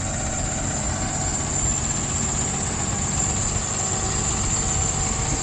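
Cummins diesel engine of a 2016 Freightliner truck running steadily.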